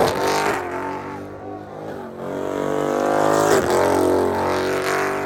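A car engine running, its sound swelling about two to four seconds in and then easing off.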